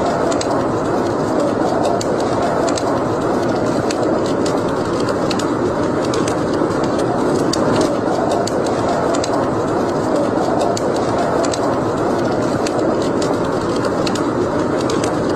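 Wood fire in a fireplace crackling, with irregular sharp pops and snaps over a steady rushing background.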